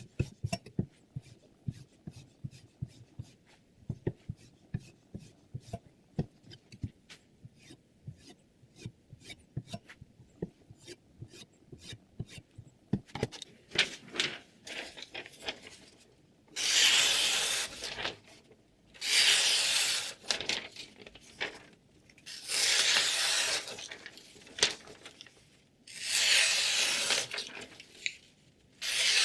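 A run of quick light clicks and taps, then from about halfway five long rasping strokes of about a second and a half each, from the edge of a freshly sharpened Xinzuo chef knife being drawn along something.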